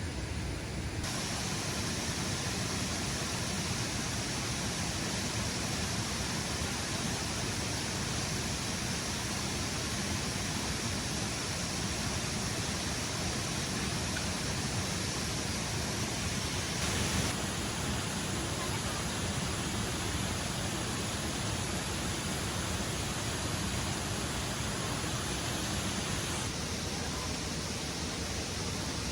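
Steady rushing of a waterfall, an even noise of falling water. Its tone changes abruptly three times, about a second in, about halfway through and near the end.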